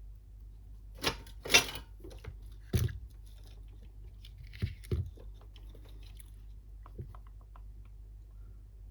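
Small tools and parts being handled during bench repair work: a few sharp clicks and knocks with a brief scratchy scraping in the middle.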